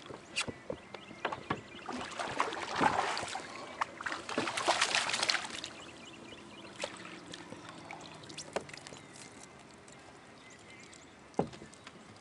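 Water splashing and sloshing around a fishing kayak in two louder spells, with scattered sharp knocks and clicks on the hull.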